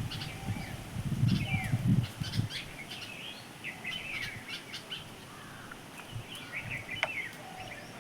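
Several small birds chirping and calling, a busy mix of short high notes and quick falling whistles. A low rumble runs under the first two and a half seconds.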